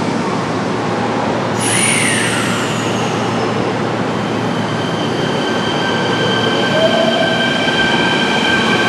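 Kintetsu 16600 series 'Ace' limited express train rolling slowly into a platform, with a steady rumble. About a second and a half in, a high squeal from the train starts and holds as several steady high tones as the train slows.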